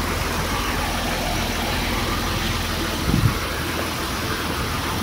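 Nissan Z pro drift car's engine idling steadily as the car is eased slowly into a parking spot, with a short louder low burst about three seconds in.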